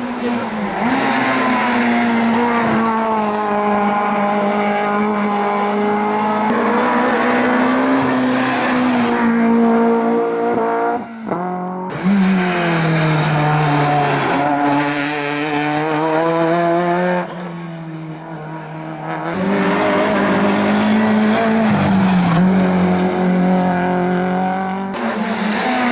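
Hillclimb competition cars running hard under load, the engine note held high and bending up and down with throttle and gear changes. The sound breaks sharply just after 11 seconds and drops for a couple of seconds around 17 seconds before coming back loud.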